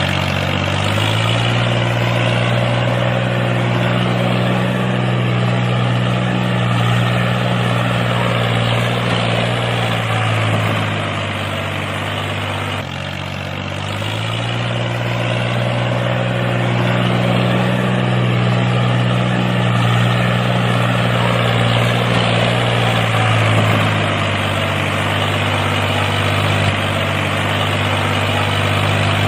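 Tractor engine idling steadily at a low pitch. The tone sags slightly about eleven seconds in, breaks off briefly around thirteen seconds, then settles back to the same steady idle.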